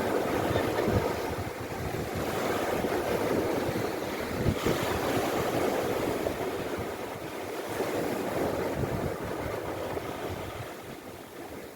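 Sea waves breaking and washing up the shore in slow swells, with wind buffeting the microphone.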